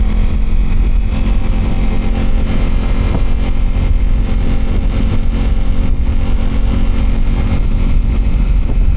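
Motorcycle riding at a steady speed: the engine runs evenly under a loud, constant low rumble, with no changes in pace.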